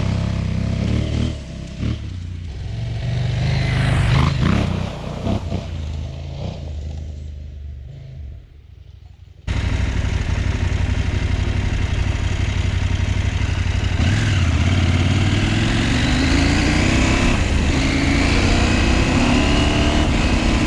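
KTM 790 Adventure R parallel-twin engine being ridden, revving up and down and then easing off to a quieter running. After an abrupt change about nine and a half seconds in, it runs loud and steady, its pitch rising again and again as the bike accelerates.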